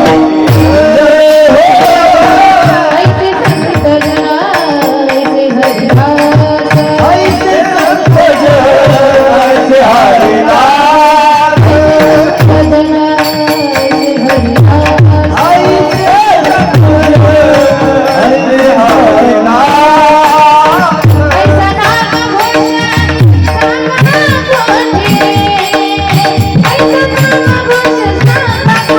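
Marathi devotional song with a woman's voice singing an ornamented melody over a steady held drone. Tabla accompanies, its deep bass strokes sliding down in pitch.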